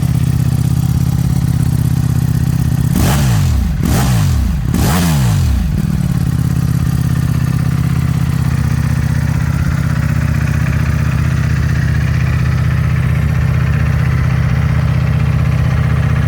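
Ducati Panigale V4S's V4 engine breathing through an Akrapovič titanium exhaust, idling, then blipped three times in quick succession about three to six seconds in, each rev rising and falling back before it settles to a steady idle.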